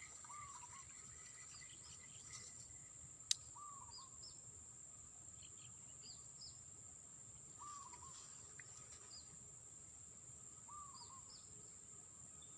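Faint outdoor ambience: a bird repeats a short, curving call about every three to four seconds over a steady high-pitched insect drone. There is one sharp click a little over three seconds in.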